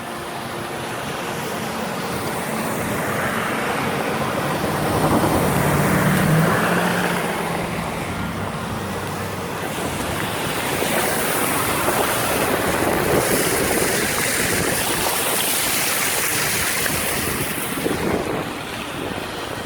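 A vehicle's tyres ploughing through floodwater on a flooded road: a loud rushing and spraying of water that swells and eases, with a low hum underneath.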